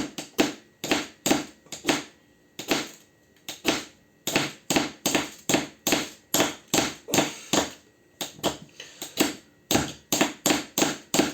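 Ordinary knife blade scraped hard down a ferrocerium fire-starting rod in quick repeated strokes, about three a second with a couple of short pauses, striking sparks to light tinder.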